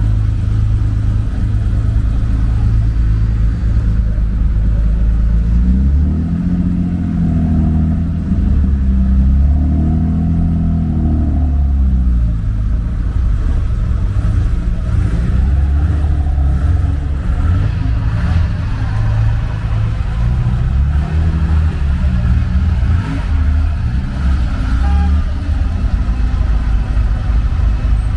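Classic car engines running close by under a steady low rumble, with engine notes rising and falling twice as cars pull away or pass.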